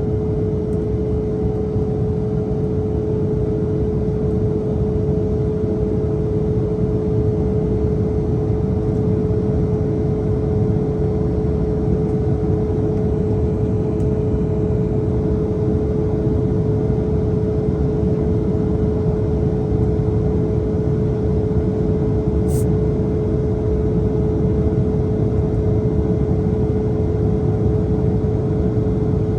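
Steady cabin noise of an Embraer E170 airliner in flight: a low, even rush of air and engine noise with a steady hum.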